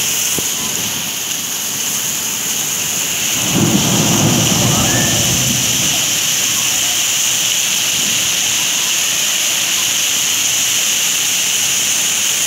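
Steady rain hiss, with a low rumble of thunder swelling about three and a half seconds in and fading by about six seconds.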